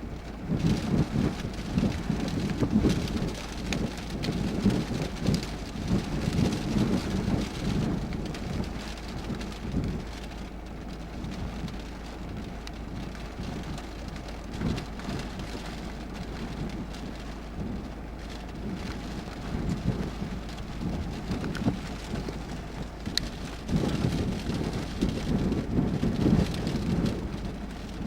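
Typhoon rain and wind, a steady wash of noise with irregular low, rumbling surges that swell in the first several seconds and again near the end.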